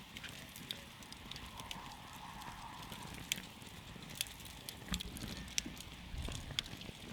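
Wood campfire crackling: irregular sharp pops and snaps from the burning wood over a soft low rumble of the flames.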